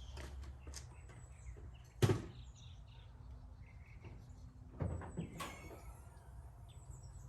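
A sharp knock about two seconds in, then a couple of lighter clunks a little after the middle, over a low steady hum.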